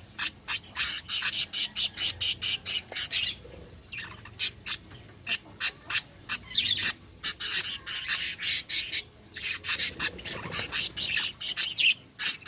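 Budgerigars chirping and chattering in rapid, sharp, high calls, with short lulls about four and nine seconds in.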